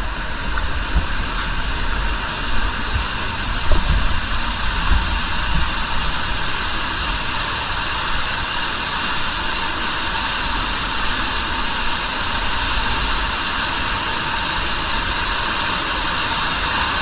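Underground cave waterfall running heavy after several days of rain: a loud, steady rush of falling water, with a few low thumps in the first few seconds.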